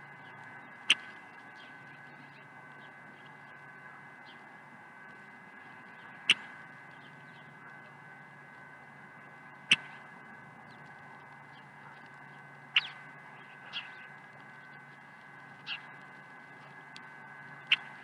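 Birds at feeders: about seven sharp, very short chip-like notes or taps, spaced irregularly a few seconds apart, over a steady faint hum.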